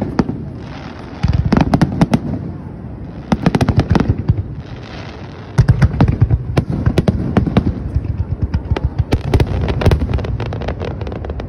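Fireworks finale barrage: many aerial shells bursting in rapid strings of sharp bangs and crackles. Two short volleys come in the first half, then an almost unbroken barrage from about halfway in.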